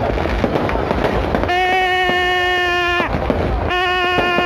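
Fireworks popping and crackling overhead, with two long, steady single-pitch horn blasts about a second and a half each sounding over them.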